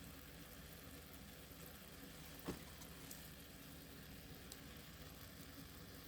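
Near silence: a faint steady low hum of room tone, with one light click about two and a half seconds in.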